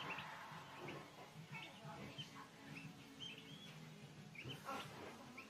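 Faint, short bird chirps, many of them in an irregular run.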